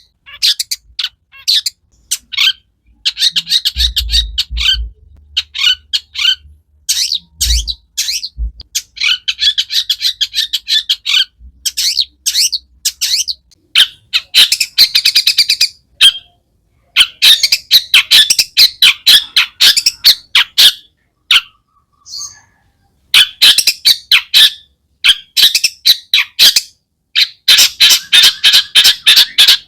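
Long-tailed shrike (cendet) singing a loud, fast, varied song full of mimicked phrases, in bursts of rapid chattering notes with short pauses between. A few low thumps come about four to eight seconds in.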